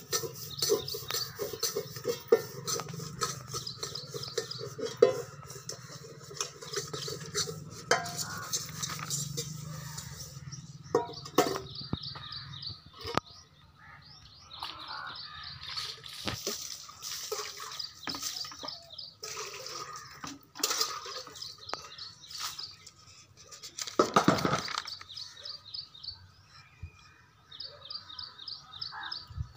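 Small birds chirping in short repeated calls, with scattered clicks and rustles of paper pages being handled and turned. A louder rustle comes about 24 seconds in.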